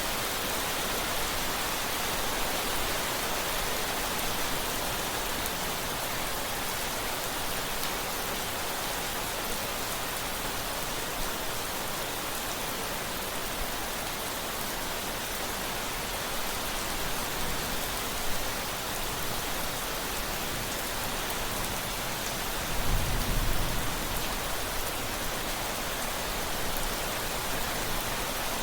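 Steady rain falling. About three-quarters of the way through, a brief low rumble of thunder.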